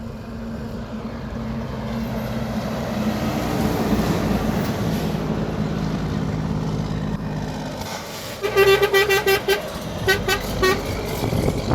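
A steady low rumble of several pitches, like a heavy engine, swells and then fades. About eight seconds in, a rapid run of short horn-like toots lasts for about two seconds.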